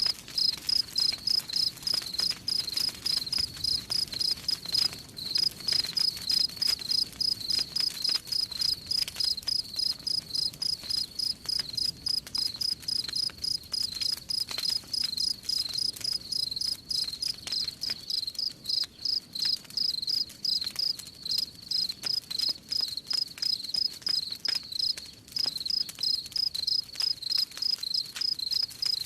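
Crickets chirping in a steady, even rhythm of about three to four chirps a second, with faint crackling from a campfire underneath.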